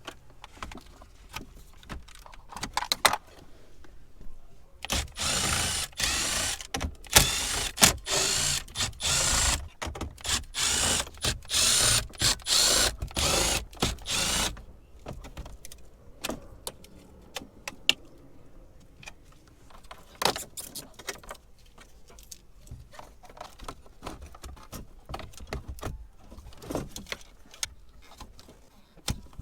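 Scattered clicks, rattles and knocks of tools and parts being handled, with a loud, dense, hissing clatter lasting about nine seconds in the middle.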